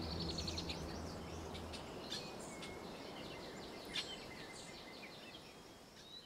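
Small birds chirping and twittering in short repeated calls over a soft outdoor hiss, growing steadily fainter. The low notes of the music die away in the first couple of seconds, and there are a couple of sharper chips about two and four seconds in.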